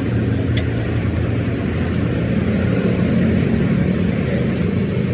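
An engine or motor running steadily with a low, even hum, with a few faint light ticks over it about half a second in.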